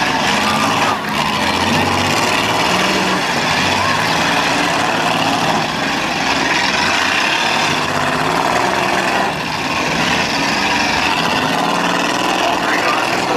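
Demolition derby cars' engines running and revving together, a loud, unbroken din whose pitch keeps shifting up and down.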